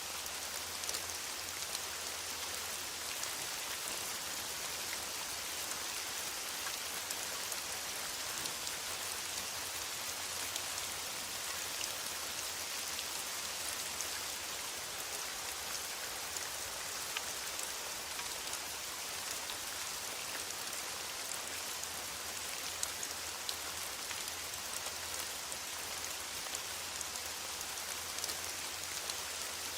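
Steady rain falling in a forest, an even hiss with many small drop ticks scattered through it.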